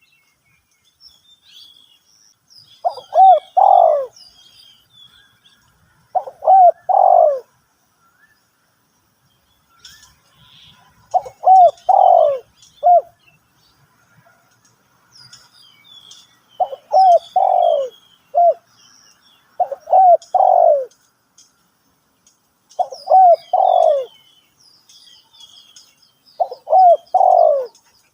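Spotted dove cooing: seven short phrases of two to four low coos each, spaced a few seconds apart. Faint chirps of small birds sound higher up.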